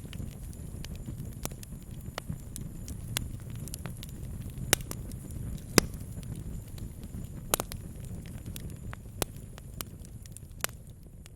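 Wood campfire crackling and popping: scattered sharp snaps over a steady low rumble, with about five louder pops in the second half.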